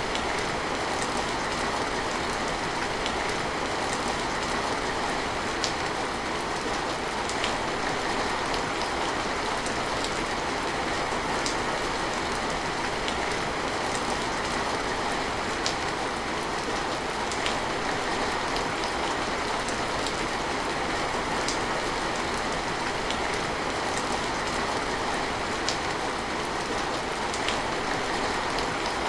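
Steady rain, a dense even hiss, with single sharp drops ticking now and then on top.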